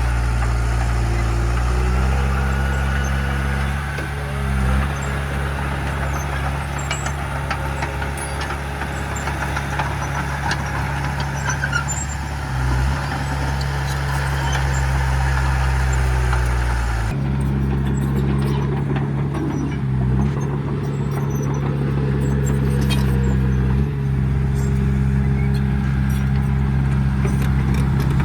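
Heavy diesel earthmoving machinery running steadily at the engine's working note, with brief dips in engine speed; the sound changes abruptly about two-thirds of the way through.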